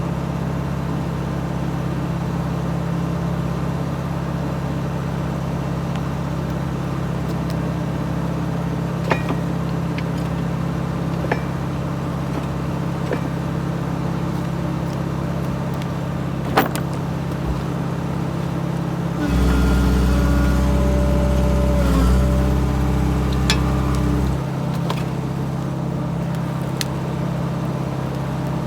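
Excavator diesel engine running steadily, with a few sharp metallic clicks. About two-thirds of the way through, it runs louder and deeper for about five seconds with a steady whine as the hydraulics work, then settles back.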